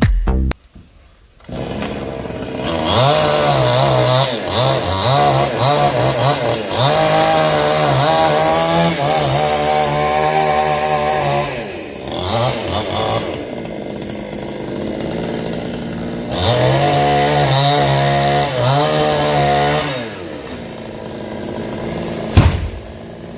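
Chainsaw cutting into a coconut tree trunk, its engine pitch rising and dipping under load. It starts about a second and a half in, eases to a lower, quieter run midway, then revs hard again before dropping back near the end.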